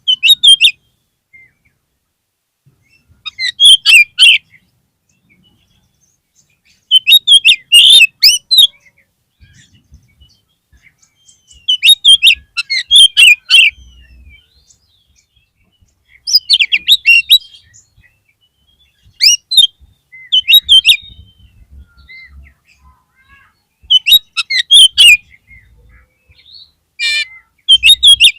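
Oriental magpie-robin (kacer) singing in short loud bursts of rapid, varied chirps and whistles, each about a second long, repeated every three to four seconds, as a provocation call to stir up a caged male.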